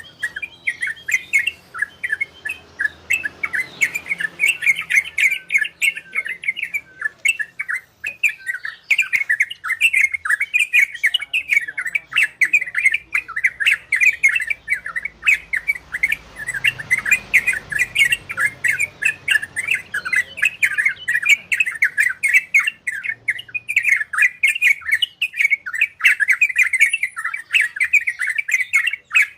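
Yellow-vented bulbul (trocokan) singing a fast, unbroken run of chattering, warbling notes, the rolling 'ropel' style prized by bird keepers, with a brief pause about a third of the way in.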